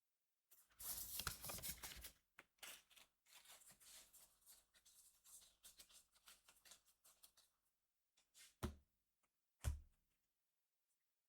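Foil trading-card booster pack being handled: a burst of crinkling, then lighter rustling and card-sliding ticks, followed by two short soft knocks.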